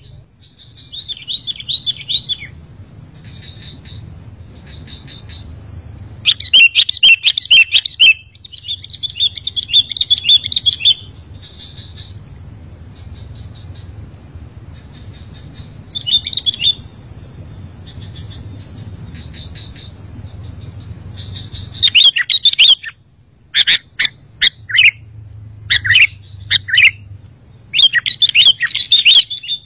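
Sooty-headed bulbuls (kutilang) chirping and chattering in quick, repeated phrases. Loud clusters of calls come about six to eleven seconds in and again from about twenty-two seconds on, with softer chatter between them.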